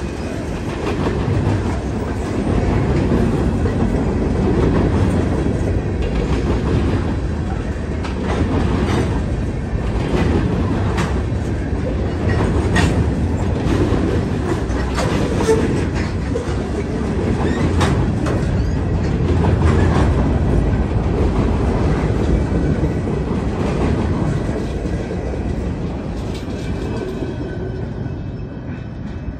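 Freight cars of a manifest train rolling past close by: a steady rumble of steel wheels on rail, with clickety-clack and sharp metallic clicks as the wheels cross rail joints. The sound eases off near the end as the last car goes by.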